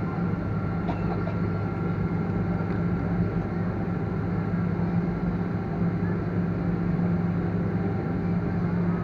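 Steady drone of a Boeing 777 airliner, a low hum with a thin steady whine above it, holding level without rising.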